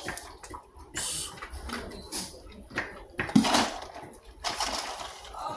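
Irregular knocks, clatter and rustling as a small child handles a dog-food container and its plastic scoop cup, trying to close it.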